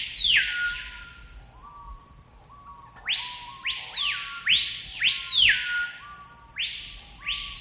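Jungle bird calls: loud whistles that swoop up and then slide down, coming in pairs every second or two.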